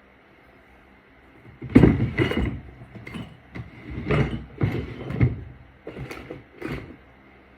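Small objects being handled: a run of irregular knocks and clatters that starts about two seconds in and stops near the end.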